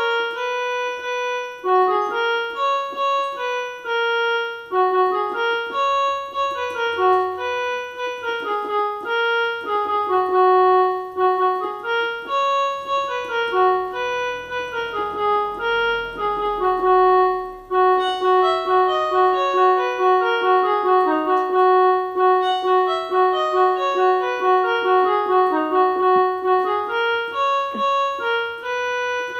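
Electronic keyboard played with a piano-like voice: a simple melody of separate notes, with a few notes held longer, and no drum accompaniment.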